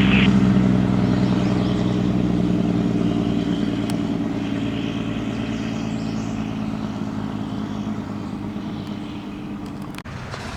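A fire truck's engine running with a steady low note that slowly fades as the truck pulls away.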